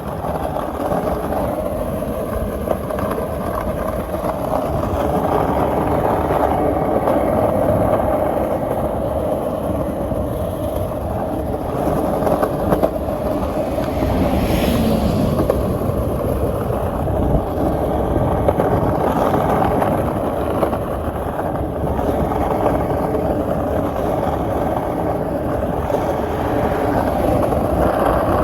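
Steady rumble of street traffic, with one vehicle passing about halfway through.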